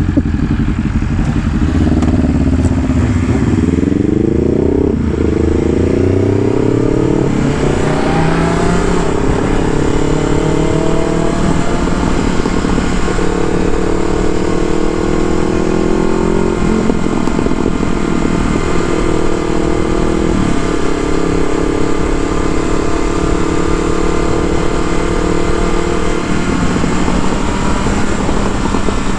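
Vehicle engine with a loud exhaust, accelerating hard through several gears: the pitch climbs, drops back at each shift, and then holds steadier near the end. Wind noise from riding at speed runs underneath.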